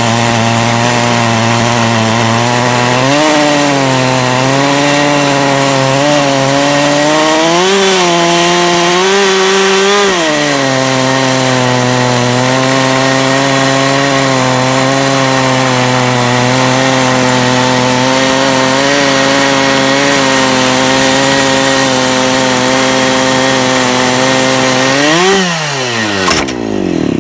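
Chainsaw mounted on a timber-jig chainsaw mill, running at full throttle while ripping along a log. Its pitch holds steady apart from brief rises about 3, 8 and 10 seconds in. Near the end it revs once, then its pitch falls as the engine slows down.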